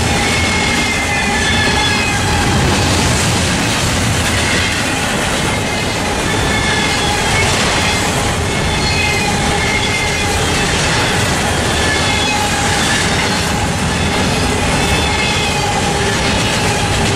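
Double-stack intermodal freight train rolling past close by: a steady rumble and clatter of steel wheels on the rails, with a thin steady whine and short wavering squeals from the wheels over it.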